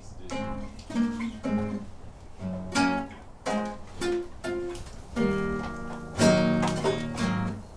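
Guitar music: a run of plucked notes and chords, with fuller strummed chords about five and six seconds in.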